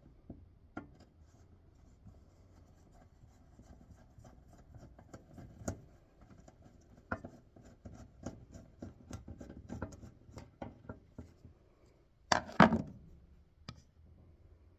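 Hand tools working on a small engine: a run of light, irregular clicks and taps, then a brief, louder metallic clatter about twelve seconds in.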